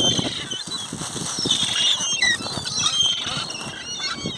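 A crowd of park birds being fed, calling with many short high squeals and squawks that overlap, over low rustling and thumping.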